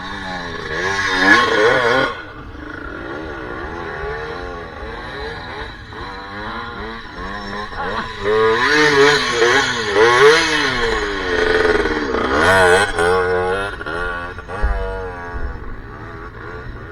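Enduro dirt bike engine revving up and down as the throttle is worked in repeated bursts, with louder surges near the start, around the middle and again a little later.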